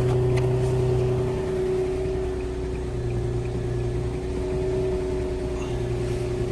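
Infiniti G35's engine idling steadily, a constant hum, running again after its new key was programmed; a deeper layer of the hum fades out and back in twice.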